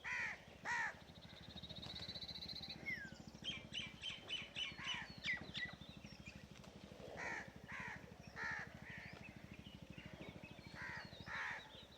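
Crows cawing, a couple of harsh caws at the start and more in two bunches later on. A run of quick, short chirps from a smaller bird comes in between.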